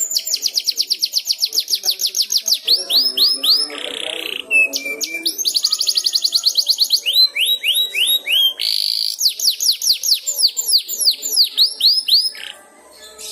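Canary singing: fast trills of repeated downward-sweeping whistles, with a short buzzy note about four seconds in and a quicker rolling trill a couple of seconds later. The song stops shortly before the end.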